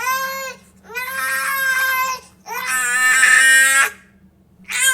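Baby crying: a short cry, then two long wails of a second or more each with breaths between, and a fresh wail starting near the end.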